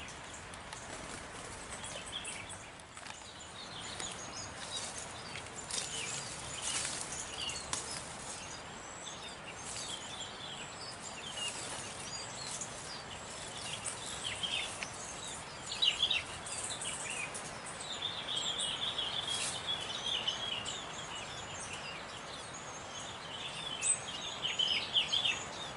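Many small birds chirping, with short high calls overlapping throughout, over a steady background hiss.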